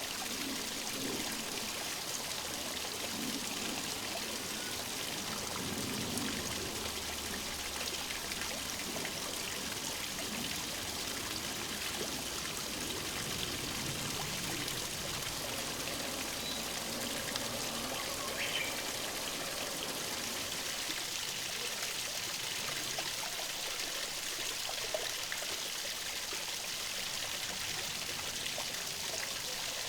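Flowing stream water, a steady rushing and trickling.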